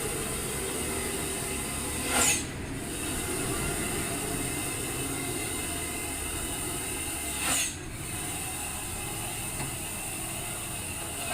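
Loaded Hino truck working down a steep grade: a steady engine and road noise, broken every five seconds or so by a short, sharp air hiss from its air brake system.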